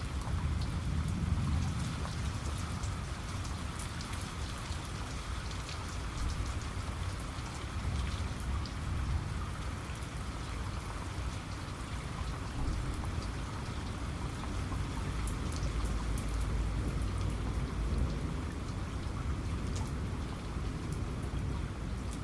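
Steady rain with individual drops ticking sharply on a surface, over a continuous low rumble.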